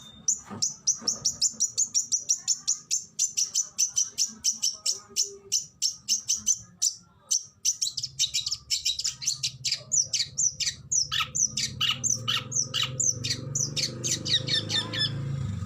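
Oriental magpie-robin (kacer) singing a rapid, unbroken string of sharp high notes, then shifting about halfway through to quick downward-sliding whistles.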